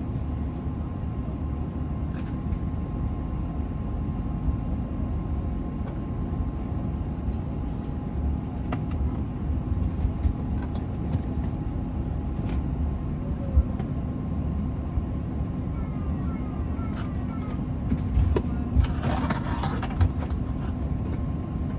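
Steady hum and rush of an airliner cabin on the ground, the air-conditioning and aircraft systems running with several constant tones under it. A few light clicks and knocks are heard, with a short stretch of distant voices near the end.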